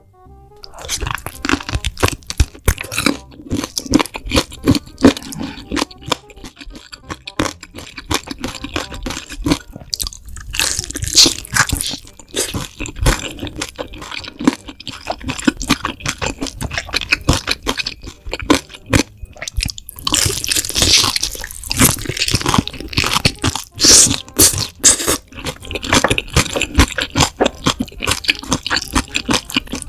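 Close-miked biting and chewing of a sauce-glazed crispy fried chicken drumstick: a long run of loud, irregular crunches, starting about half a second in and loudest about two-thirds of the way through.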